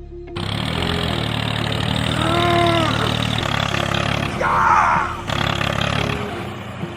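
Engine running steadily at a low pitch, with two short pitched calls over it in the middle.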